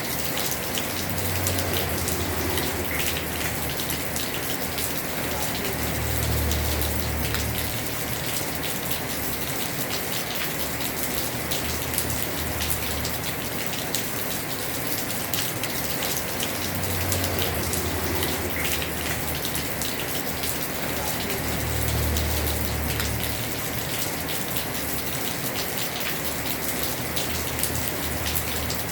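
Heavy rain falling on a house roof: a dense, steady patter of drops. A low rumble swells and fades several times underneath.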